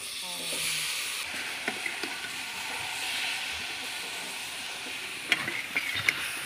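Small shrimp sizzling in hot oil in a kadhai of frying onions, the sizzle surging as they go in, while a metal spatula stirs them. Near the end the spatula scrapes and knocks sharply against the pan a few times.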